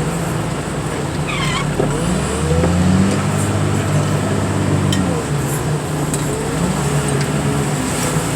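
Wheel loader's diesel engine running, revving up about two seconds in, holding for about three seconds, then settling back to idle.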